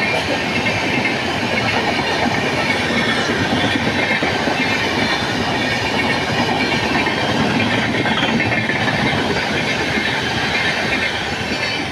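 Train hauled by a WAP7 electric locomotive passing close at full speed: a steady, loud rush of wheels on the rails that holds for the whole stretch.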